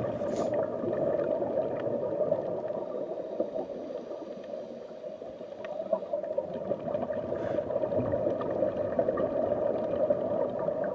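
Muffled underwater rushing and gurgling from a scuba diver's regulator and exhaled bubbles, picked up through the camera's underwater housing; it eases off briefly about five seconds in, then picks up again.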